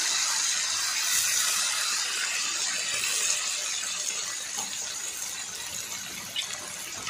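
Sauces sizzling in hot oil with fried chicken and vegetables in a metal wok: a steady hiss that slowly dies down toward the end.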